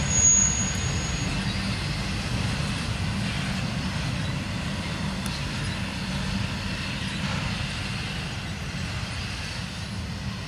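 Steel wheels of intermodal flatcars carrying semi-trailers rolling past on jointless track, a steady rumble that slowly fades as the end of the freight train goes by. A thin high whine dies out about a second in.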